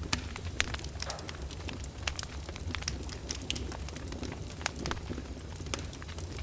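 Open fire in a fireplace crackling, with frequent irregular sharp pops, a few of them much louder, over a low steady rumble.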